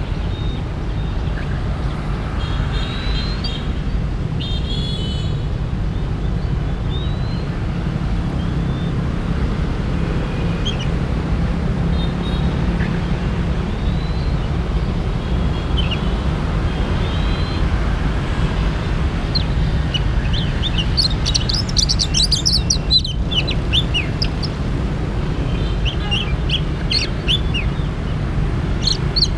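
Songbird calls: scattered short high chirps and whistles that thicken into a quick, dense run about two-thirds of the way through and again near the end. They sit over a steady low rumble.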